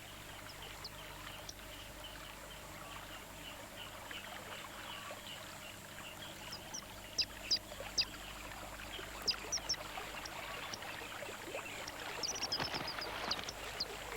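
Faint riverside ambience: an even, watery hiss with a scatter of short, high chirps, several in quick pairs, beginning about seven seconds in and clustering near the end.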